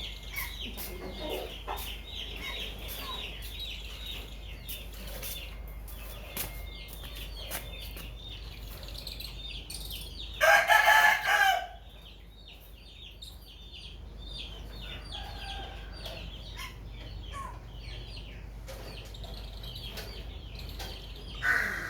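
Birds chirping steadily, with one loud, drawn-out bird call of about a second about ten seconds in and a shorter loud call near the end.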